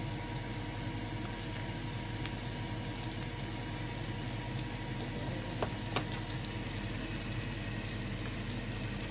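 Asparagus and garlic frying in butter in a pan, a steady sizzle, with oyster sauce being poured over them. Two small clicks a little past halfway.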